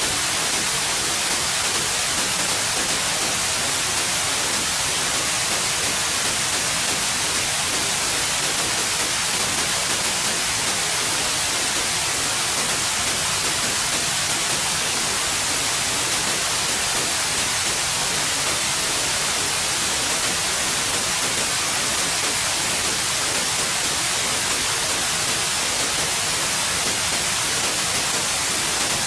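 Steady synthetic white noise: an even, unbroken hiss, brightest in the high range, with no change in level.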